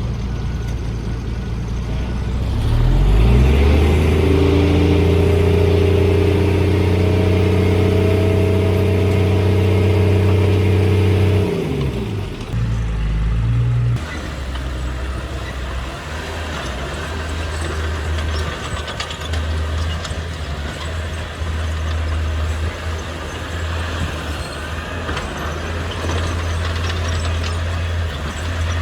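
Heavy diesel engine of a dump truck or bulldozer revving up about three seconds in and held at high revs under load. It drops back after about eleven seconds, then runs at lower revs with rumbling and scattered clanks.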